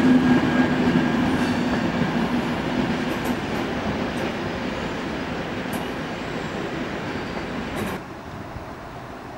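Train of passenger coaches rolling out past a station platform. The wheel and running noise fades as the train moves away, with a few faint clicks from the wheels. About 8 seconds in, the sound drops suddenly to a quieter background.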